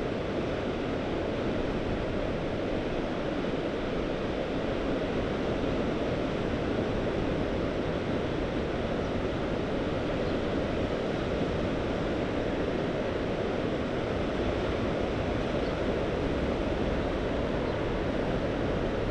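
Mediterranean Sea surf washing steadily, a constant wash of waves with no single breaker standing out, and a low rumble of wind on the microphone.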